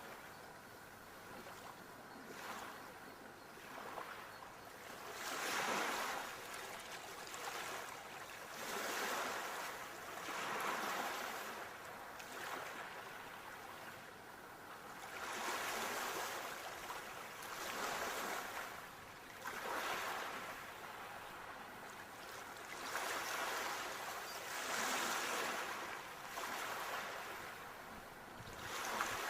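Ocean waves breaking and washing in, one surge after another, swelling and ebbing every two to four seconds.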